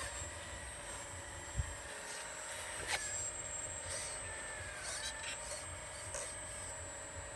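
Electric motors and gearing of a radio-controlled model construction machine whining steadily, the pitch dipping briefly a few times as it changes speed, with a few sharp clicks.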